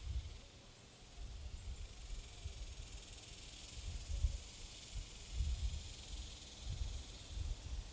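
Outdoor ambience: wind gusting on the microphone, a low uneven rumble, over a steady faint high hiss.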